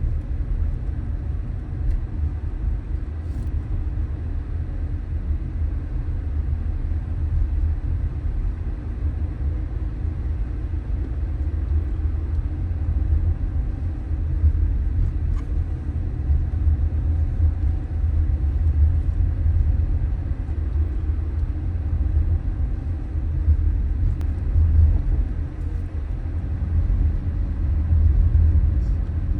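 Car driving along a street: a steady low rumble of road and engine noise.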